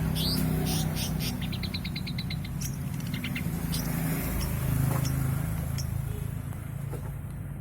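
Long-tailed shrike singing a varied, chattering song: a few quick rising chirps, then a rapid trill of about a dozen notes, a shorter trill, and scattered sharp chips. A steady low rumble runs underneath.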